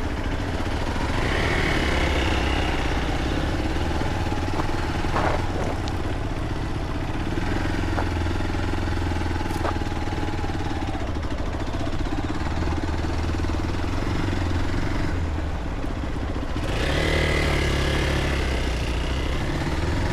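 A vehicle engine running steadily at low speed, with a few light knocks along the way.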